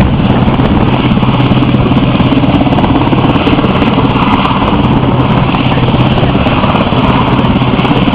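RAF Westland Sea King helicopter flying close by: the rotor and twin turboshaft engines make a loud, steady drone with a constant low hum. It is moving into position to come into the hover.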